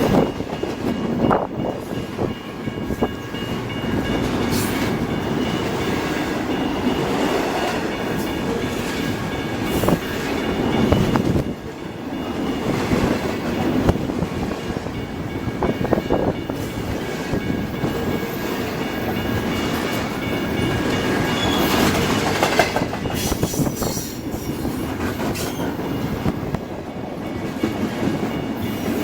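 BNSF freight train cars rolling past close by, a continuous heavy rumble with repeated clicks of wheels over rail joints. Faint steady high-pitched wheel squeal rides over it.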